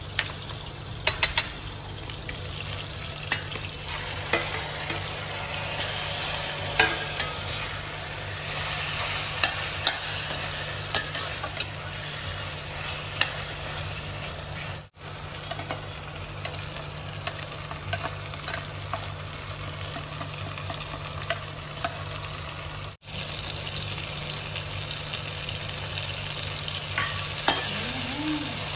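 Tomatoes, roasted eggplant and spices sizzling in oil in a stainless steel kadhai while being stirred with a spatula, which clicks and scrapes against the pan again and again. The sound drops out briefly twice.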